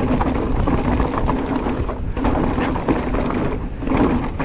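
Riding noise from an e-mountain bike on a trail: wind rushing over the microphone, with tyre rumble and small knocks and rattles from the bike over rough ground.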